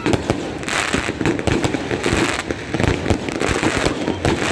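A 168-shot LF Fireworks Space Ranger cake firing in rapid succession: sharp bangs several times a second as shots launch and burst, mixed with crackling from the bursting stars.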